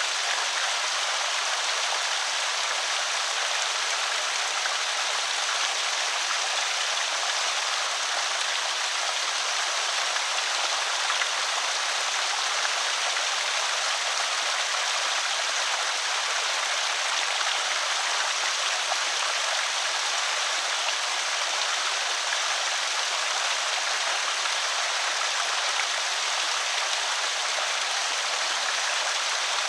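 Water pouring steadily over a small creek spillway, an even rushing hiss that stays the same throughout.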